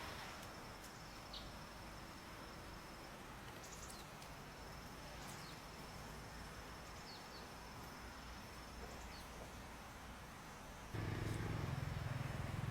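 An insect trilling on one steady high note, with a few short falling chirps over it. About eleven seconds in, a louder low hum starts.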